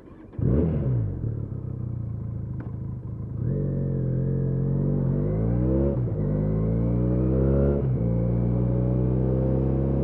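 Benelli Leoncino 500's parallel-twin engine: a sharp rev just after the start that falls back, steady running for a few seconds, then accelerating with rising pitch through gears, with a shift near 6 s and another near 8 s.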